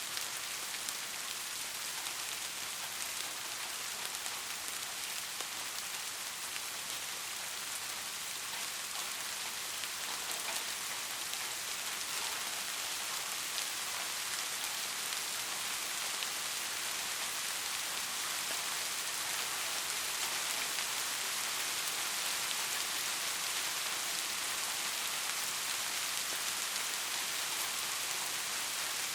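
Steady rain falling: an even hiss with scattered drop ticks, growing slightly louder in the second half.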